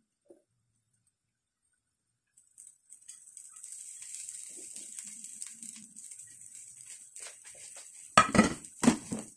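Egg and bread frying in butter in a nonstick pan: a steady, soft sizzle starts a few seconds in, after near silence. Two loud clattering knocks of cookware come near the end.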